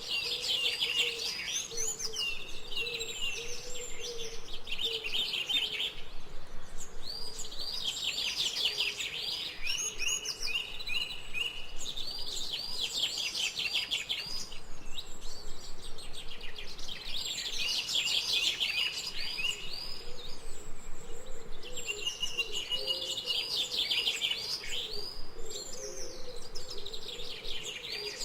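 Jungle birds singing: bouts of fast, high chirping notes a few seconds long, repeated with short pauses, over a lower wavering call that runs on underneath.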